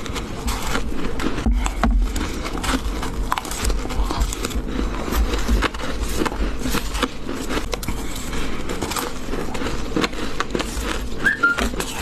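Close-miked chewing and crunching of white ice, a dense run of crackling, scraping clicks over a low rumble.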